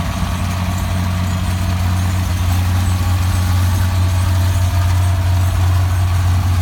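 Large tractor engine running steadily, a low, even hum.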